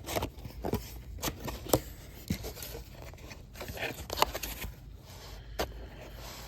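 Hands opening a product box and its packaging: scattered sharp clicks and knocks with scraping and rustling.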